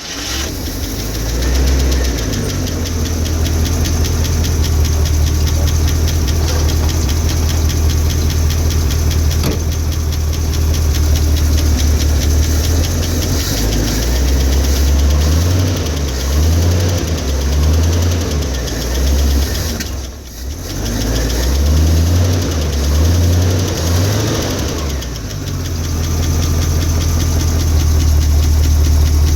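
International 345 V8 running on a cold start with the choke partly in. Its speed rises and falls unevenly for several seconds in the middle, with a brief drop about twenty seconds in, then it settles to a steady idle near the end. The speaker suspects it is getting too much choke.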